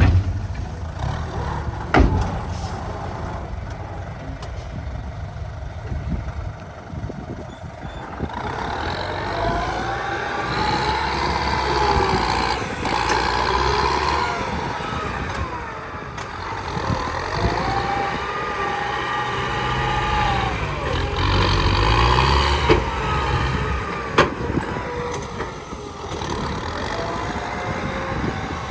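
A truck's engine running steadily. From about eight seconds in, a whine rises and falls in pitch several times, and there is a sharp knock about two seconds in.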